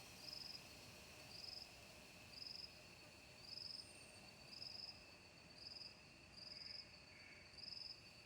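Faint insect calls: a short high-pitched chirp repeating about once a second, over a steady high-pitched insect hum.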